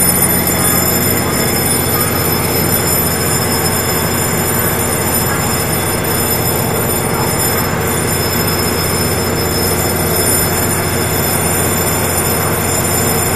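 Electric multiple-unit train standing at a platform, its on-board equipment running with a steady low hum and drone that does not change.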